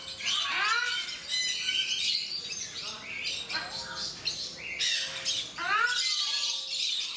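Ruddy shelducks giving their honking calls, several in quick runs, each call rising and then falling in pitch, with higher chirps around them.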